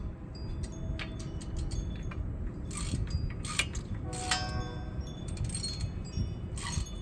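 Metal hand tools and parts clinking against each other during brake work: a scattered series of sharp clicks, several with a short metallic ring, the loudest about four seconds in.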